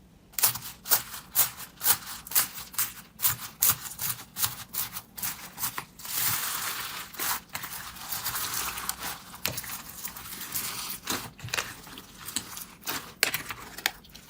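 Slime being pressed and worked by hand, making a run of sharp clicks and pops, with a denser, continuous crackling from about six seconds in to about eleven.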